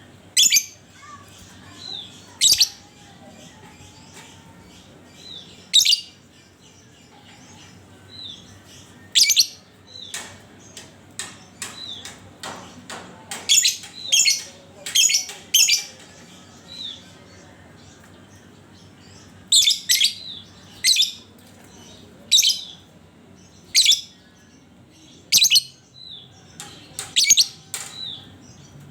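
Lovebird calling: a series of loud, sharp, short chirps, one every few seconds at first and then in quicker runs in the middle and second half, most with a softer call just before. A faint steady hum lies beneath.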